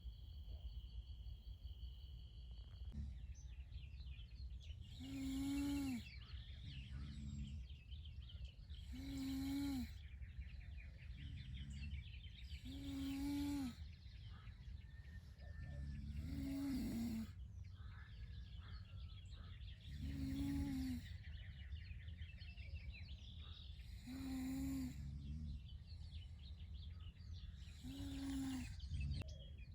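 A person snoring in regular breaths, one snore about every four seconds, each followed by a softer breath. Insects chirr steadily in the background.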